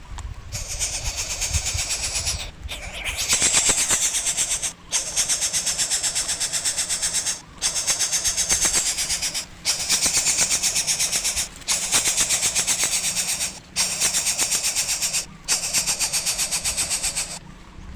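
Coucal chick giving its harsh, rapidly pulsing rasping begging call in a run of bouts about two seconds long, broken by brief pauses, eight times over; the call of a nestling still asking for food.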